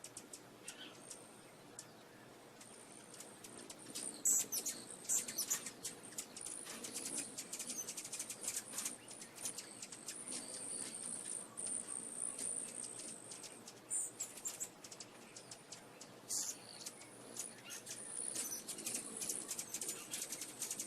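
Small birds chirping: many quick, high-pitched calls that grow busier and louder from about four seconds in.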